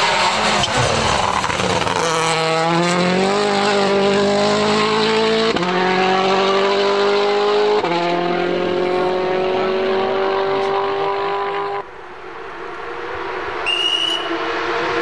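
Rally car engine accelerating hard, its pitch climbing through the revs with two upshifts, after a couple of seconds of rough tyre and engine noise. It breaks off suddenly about twelve seconds in, and another car's engine then builds up more quietly.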